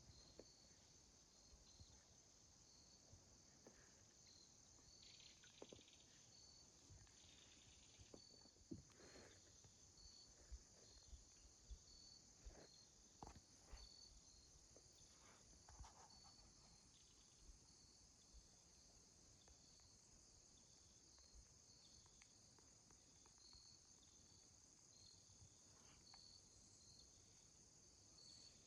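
Faint chorus of insects: a steady high drone with a short chirp repeating about once or twice a second. Scattered faint knocks and rustles come in the middle.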